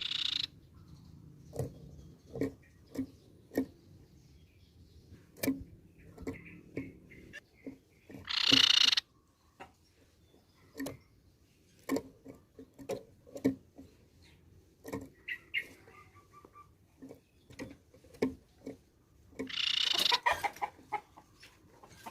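Crescent-chested babbler giving three loud, harsh chattering calls: one at the start, one about eight seconds in and one near the end. Fainter short calls and many soft clicks come between them.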